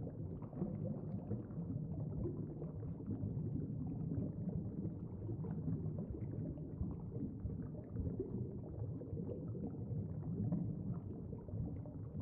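Steady, muffled underwater-style ambience: a low rumble with a faint bubbling, burbling texture.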